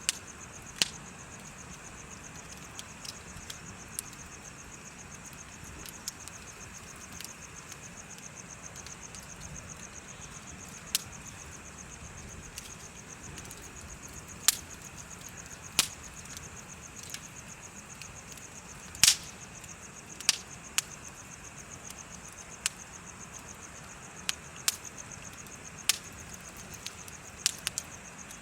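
Wood bonfire crackling with sharp, irregular pops, the loudest about two-thirds of the way through, over a steady, rapid, high trill of insects chirping.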